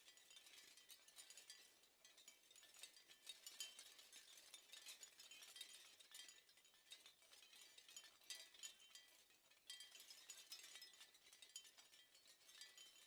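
Near silence, with faint, dense high clicking and tinkling throughout.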